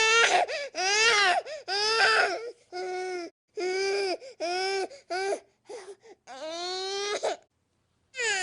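Infant crying in a run of short wails, each rising and falling in pitch, then one longer rising wail. The sound cuts to silence for under a second near the end before a new, steadier cry starts.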